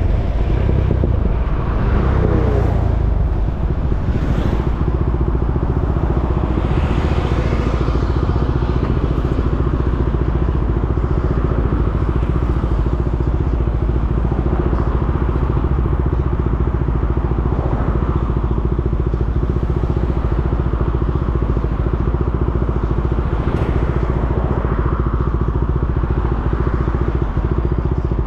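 KTM 390 Duke's single-cylinder engine running steadily at low revs, with a brief rise in pitch about two seconds in.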